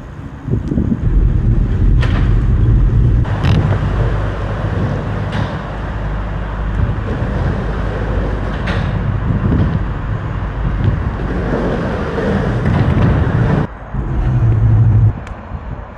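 Rumbling wind and road noise from riding a bicycle, with a few sharp knocks. The noise drops out suddenly near the end, then comes back as a brief loud rumble.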